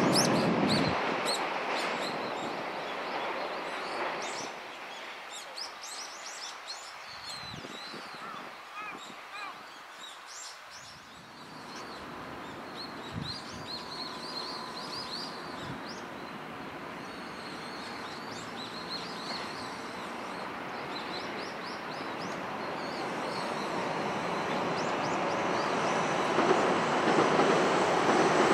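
A container freight train's rail noise fading as it runs off into a tunnel, leaving small birds chirping over a quiet lull. Then an electric commuter train's running noise grows steadily louder near the end as it approaches along the viaduct.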